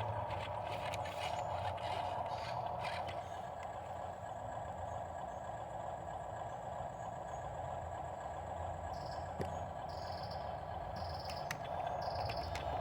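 Dump truck's diesel engine running steadily with a low rumble. In the last few seconds a high-pitched beep pulses about every two-thirds of a second.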